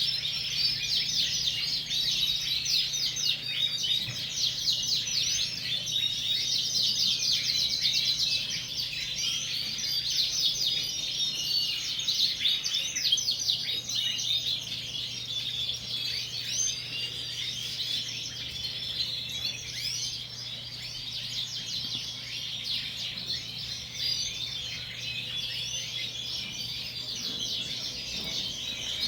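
A roomful of Yorkshire canaries chirping and singing at once, a dense, unbroken chorus of overlapping trills and tweets, over a low steady hum.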